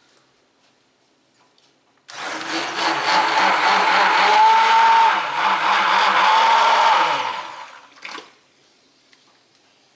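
A small electric mixer motor switches on about two seconds in, runs for about five seconds with a wavering pitch while stirring the beef-onion soup mix into water, then winds down; a short knock follows.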